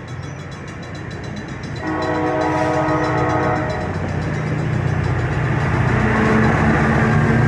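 Horn of an approaching NCTD Coaster commuter train, sounding one blast of about a second and a half, roughly two seconds in. After it comes the low running of its F40PHM-2C diesel locomotives, growing louder as the train draws near.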